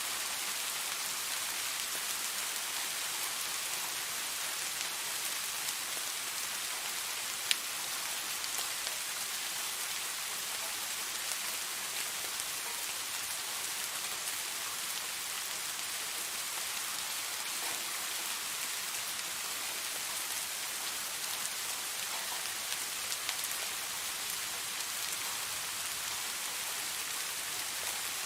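Steady rain, an even hiss with scattered drop ticks; one sharp click stands out about seven seconds in.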